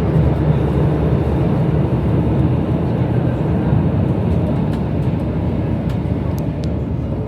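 Steady low rumble of a Downtown Line C951A metro train running between stations, heard from inside the carriage.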